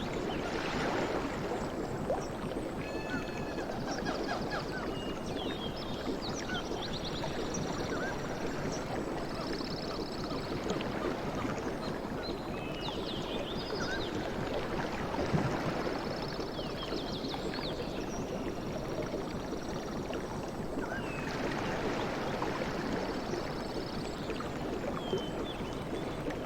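Sea waves washing ashore in a steady rush that swells a few times. Short high chirps and trills sound over it throughout.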